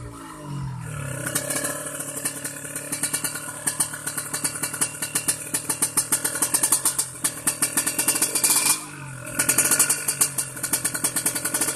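Kawasaki Ninja 150 two-stroke single-cylinder engine running with a fast, rattling pulse. Its revs settle down at the start, then hold, and it dips briefly about nine seconds in before picking up again.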